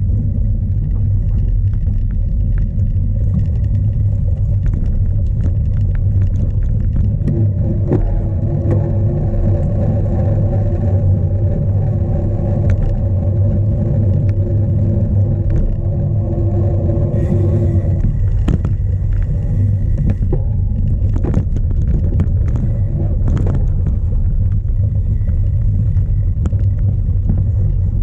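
Strong wind buffeting the microphone of a bike-mounted camera as a steady heavy rumble, while a cyclocross bike rattles and knocks over rough ground. A steady mid-pitched hum sits over it from about a quarter of the way in until just past the middle.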